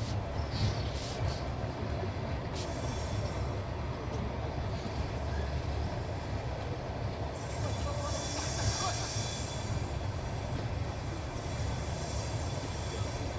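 Passenger train running on rails, heard from a carriage window: a steady low rumble of the wheels, with a brighter high-pitched hiss of rail noise from about seven seconds in.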